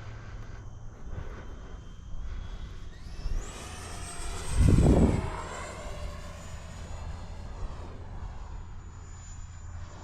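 Freewing F-22 Raptor 70mm electric ducted-fan RC jet flying past. Its high fan whine comes in about three seconds in, sweeps in pitch as the plane passes, and fades toward the end, with a loud low rumble around five seconds in.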